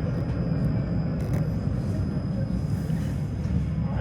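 Tram running between stops, heard from inside the car: a steady low rumble of motors and wheels on the rails, with a few light clicks a little over a second in.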